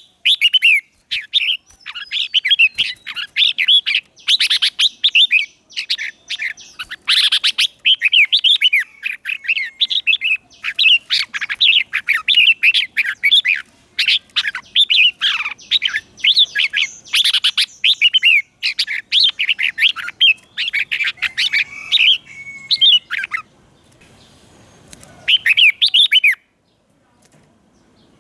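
Red-whiskered bulbul singing: a fast, continuous run of short, bubbly whistled phrases, breaking off near the end with one last phrase after a short pause.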